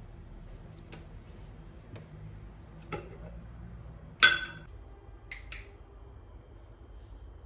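Kitchenware being handled: a sharp, ringing clink about four seconds in, as of a hard dish set down, with a few lighter knocks around it.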